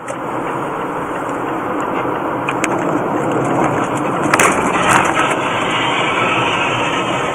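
Steady rushing road and wind noise from a moving vehicle, with a few sharp knocks; the loudest come about four and a half and five seconds in.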